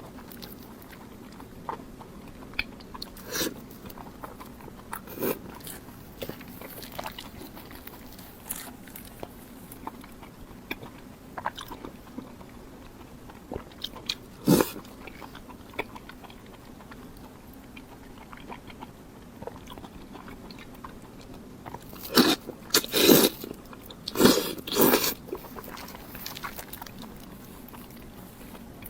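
Close-miked eating sounds: a person biting and chewing food, with scattered wet mouth clicks and a louder run of bites near the end.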